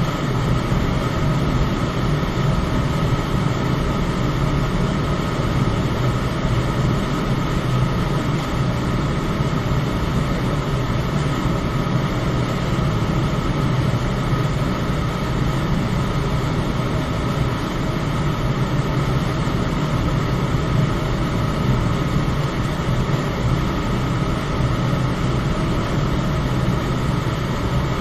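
Electric fan running steadily: an even low hum and rushing air, with a faint steady whine above it.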